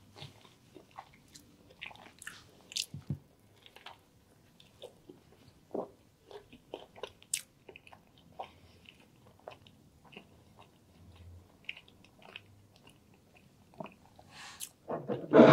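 Close-miked chewing of a chicken and mushroom sandwich, with scattered wet mouth clicks and soft crunches. A louder, fuller noise comes near the end.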